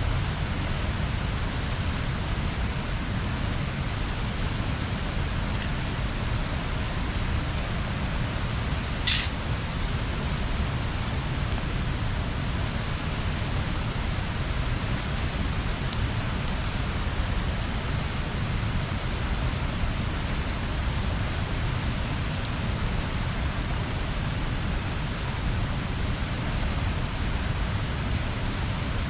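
Bonfire burning with a steady hiss and rumble, with a few faint crackles and one sharper snap about nine seconds in.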